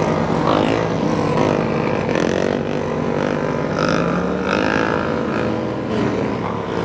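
Motorcycle engines running, a steady drone with small rises and falls in pitch.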